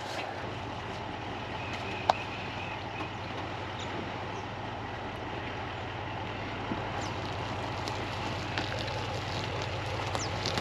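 A vehicle engine running steadily at idle, a low hum, with one sharp click about two seconds in.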